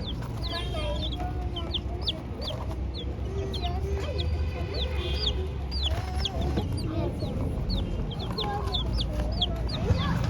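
A group of young chicks peeping continuously: many short, high, downward-sliding cheeps, several a second, with lower wavering calls underneath.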